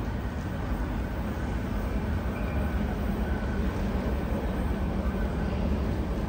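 Steady low rumble of an electric passenger train moving in the station.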